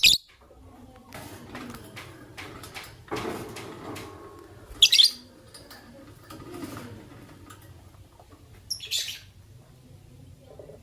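Lovebirds giving short, sharp, high-pitched chirps in three bursts: at the start, about five seconds in and about nine seconds in. Softer rustling and clicking sounds fill the gaps between them.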